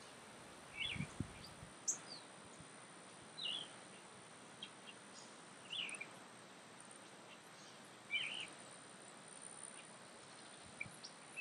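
Birds chirping now and then, about five short, separate calls, over a faint steady outdoor hiss.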